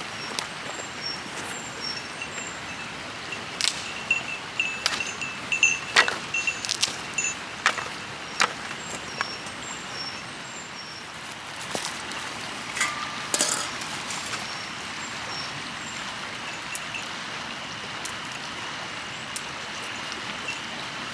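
Scattered metallic clinks and knocks of camp gear being handled, over the steady rush of a river. Short high chirps repeat in the background, mostly near the start and again near the end.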